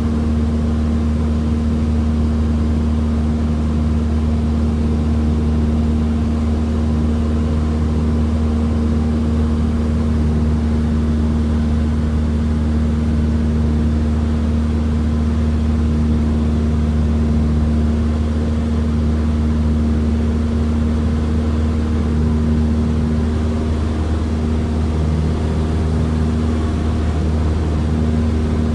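Cessna 172's piston engine and propeller droning steadily at an unchanging power setting, heard inside the cockpit.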